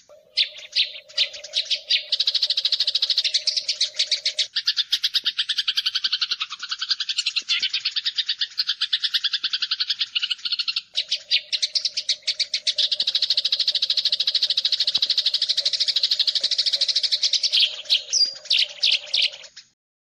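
Eurasian tree sparrows fighting: a fast, dense run of sharp chattering chirps, many to the second, with a low steady tone underneath for much of it, breaking off just before the end.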